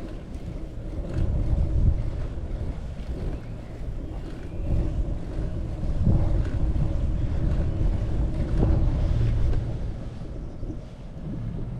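Wind buffeting the microphone in gusts, a heavy low rumble that swells and eases, with a faint steady hum underneath.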